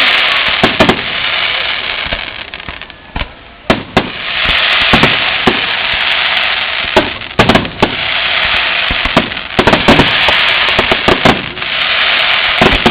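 Fireworks going off: repeated sharp bangs and pops at irregular intervals over a dense, steady hiss.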